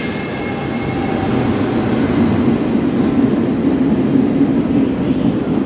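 Locomotive-hauled passenger train running in along an underground station platform: a steady rumble of wheels and carriages that grows a little louder about two seconds in.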